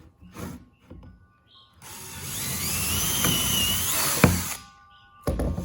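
Power drill pre-drilling a hole in a wooden board: the motor spins up about two seconds in with a rising whine, runs for under three seconds and stops, with a sharp click just before it stops. A thump follows near the end.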